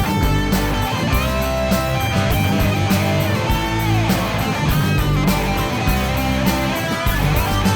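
Rock-style worship band playing an instrumental passage: electric guitar over strummed guitar, bass and drums with a steady beat, the lead line sliding up and down in pitch.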